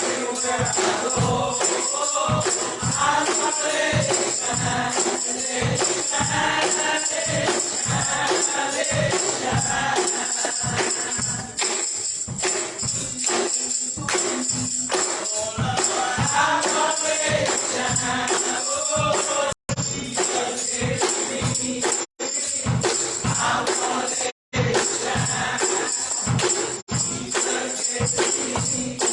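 Gospel choir singing with a steady beat and tambourine. The sound cuts out briefly four times in the second half.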